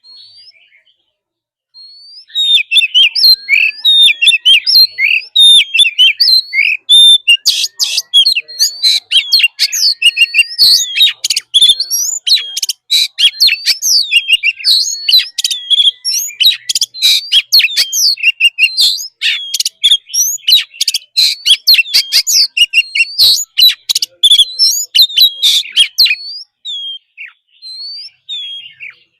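Oriental magpie-robin singing a loud, rapid, varied song of whistled phrases, chirps and harsh notes, in the wild-style 'forest voice' used for song training. It begins about two seconds in and thins to scattered notes near the end.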